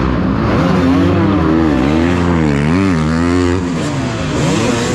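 Small pit bike engines revving hard as they race, their pitch rising and falling with each throttle change, with more than one engine heard at once.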